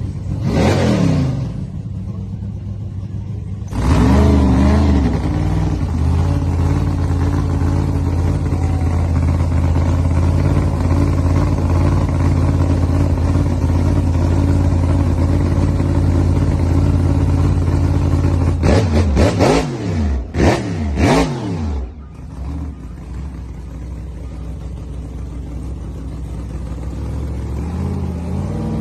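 Alcohol-burning race car engine running: a brief rev, then it climbs about four seconds in and holds a loud steady high-rpm note for about fifteen seconds. Several quick throttle blips follow, then it drops to a lower steady run and revs up again near the end.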